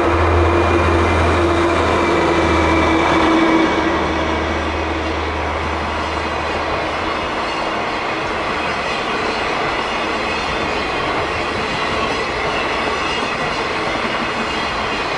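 Container freight train passing. The diesel locomotive's engine hum is loud for the first few seconds and fades out by about seven seconds in. After that comes the steady rumble and clatter of the container wagons rolling over the rails.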